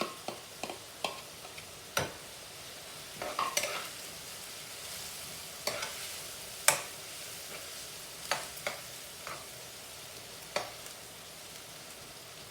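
Onion, garlic, pepper and ginger sizzling steadily in hot oil in a pot, with a spoon knocking and scraping against the pot now and then as it is stirred.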